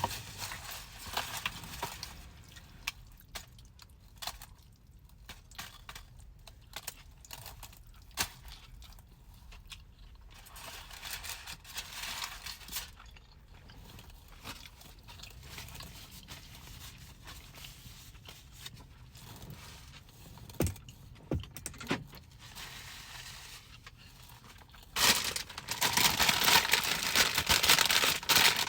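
Mostly quiet small clicks and rustles from food being handled. Near the end a loud, continuous crinkling starts: a bag of chips being handled and opened.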